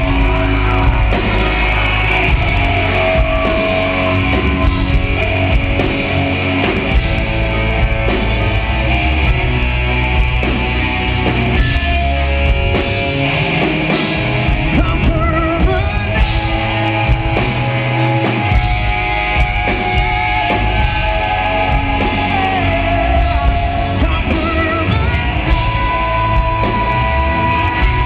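Live rock band playing loud and steady, with drums, distorted guitars, heavy bass and a sung vocal line, picked up by a camera microphone in the crowd.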